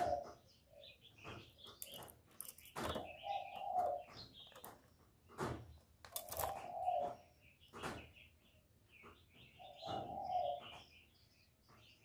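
Spotted dove cooing, a low phrase repeated three times about every three and a half seconds, with small birds chirping higher in between and a few sharp clicks.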